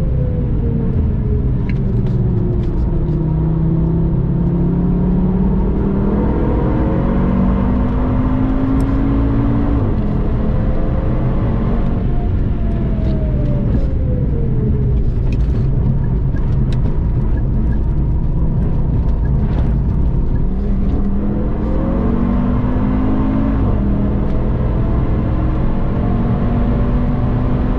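Audi TT RS's turbocharged 2.5-litre five-cylinder engine heard from inside the car, its pitch falling as the car slows from high speed and climbing again under acceleration, with a sudden drop about ten seconds in. A steady road and tyre rumble runs underneath.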